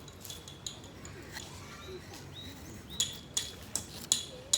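A series of sharp clinks, each with a brief ringing after it, sparse at first and then coming quickly, about two or three a second, over the last second and a half. Faint bird chirps in the background.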